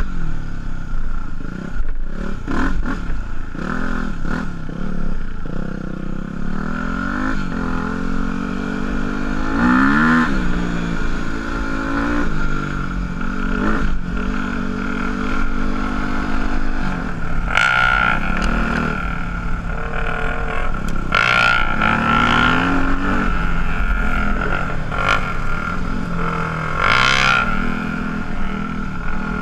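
Single-cylinder dual-sport motorcycle engine riding along, its pitch repeatedly climbing and dropping as the rider accelerates and shifts gears. Short bursts of hiss break in three or four times in the second half.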